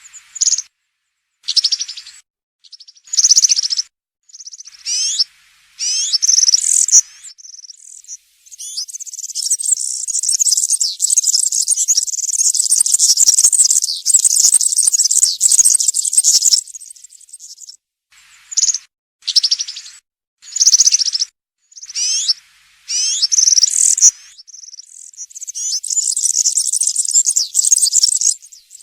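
European serin singing its high-pitched song. Short phrases with gaps between them alternate with long unbroken runs, one lasting about eight seconds from roughly eight seconds in and another near the end.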